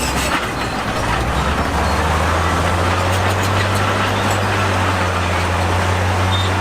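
Heavy diesel engine of earthmoving machinery running, with a low hum that settles to a constant pitch about two seconds in, under a broad noisy wash.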